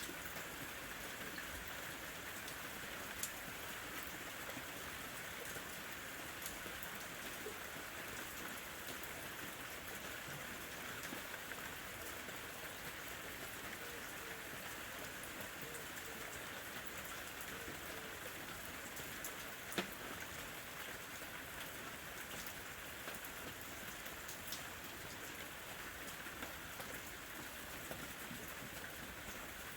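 Gentle summer rain falling steadily, with scattered single drops ticking on a surface; one sharper drop stands out about 20 seconds in.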